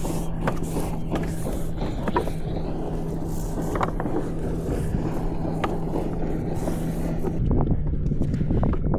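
A sailboat's inboard engine running at a steady hum under way, with scattered light knocks. About seven seconds in the sound shifts to a louder low rumble.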